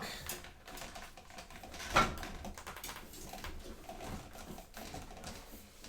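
Quiet handling noises of a large toy figure being moved and set in place, with one short knock about two seconds in.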